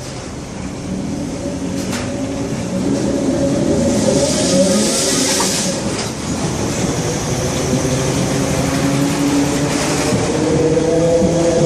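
Mafersa Série 1700 electric multiple unit pulling away, its traction motors whining in tones that slowly rise in pitch as it gathers speed, while car 1734's wheels slip on the wet rails. A hissing burst comes partway through.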